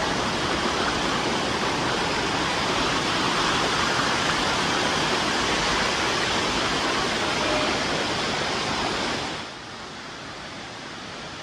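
Dunn's River Falls rushing, a steady, loud wash of cascading water that drops abruptly to a quieter level about nine seconds in.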